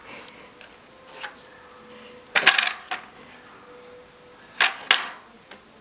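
Hard objects knocking and clattering in short bursts: a light knock about a second in, a loud clatter about halfway with a knock just after, and a loud double knock near the end.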